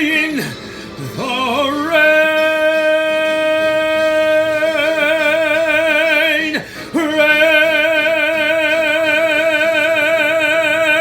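A baritone singing long, held notes with a steady vibrato on wordless vowels. He slides up into a note about two seconds in, breaks briefly for a breath past the middle, then holds a final long note to the end.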